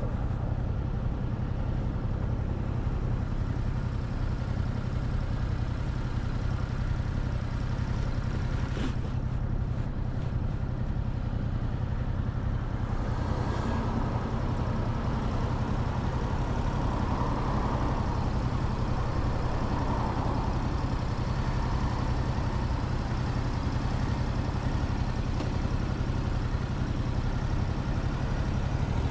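Motorcycle engine running steadily under way, a constant low rumble. A single sharp click comes about nine seconds in, and a rushing noise swells and fades in the middle.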